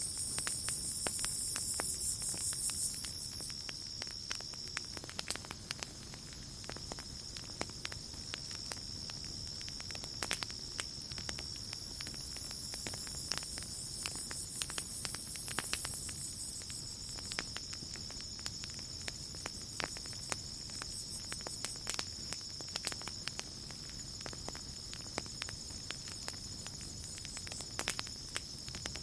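Campfire crackling with irregular sharp pops, over a steady high chirring of night insects; a second, higher insect buzz swells in for the first few seconds and again around the middle.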